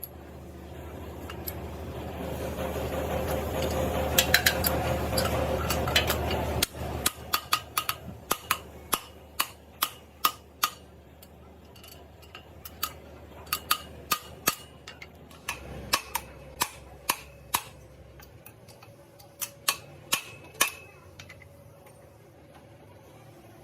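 A steady machine noise builds for about six seconds and stops suddenly. Then comes a long string of sharp metallic knocks and taps, roughly one a second, as metal parts and tools are worked on.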